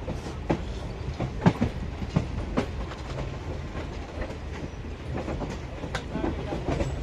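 Indian Railways express train running at speed: a steady low rumble of the coach with irregular sharp clicks and clatter as the wheels pass over rail joints.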